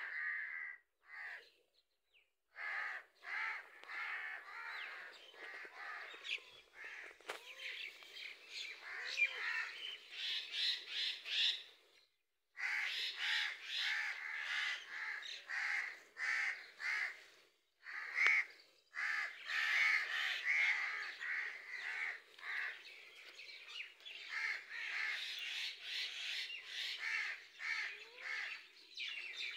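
Birds calling over and over in short, overlapping calls, with a few brief pauses.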